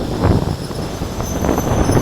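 Passenger train hauled by a ChS8 electric locomotive running past: a rumble with uneven knocks of wheels over the rail joints, and a thin high wheel squeal coming in near the end.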